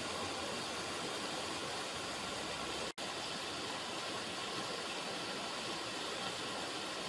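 River water running with a steady rushing sound, cut off for an instant about three seconds in.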